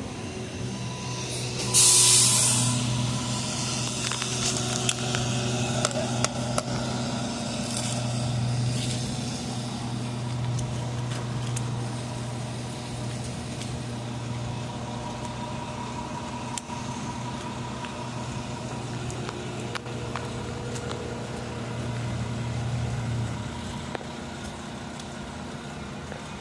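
An engine running steadily on a concrete pour site, with a short loud hiss of air about two seconds in. The engine hum drops away near the end.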